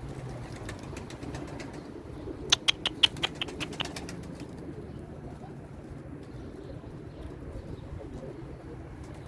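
Domestic pigeons cooing, with a quick run of about ten sharp wing claps starting about two and a half seconds in as pigeons take off.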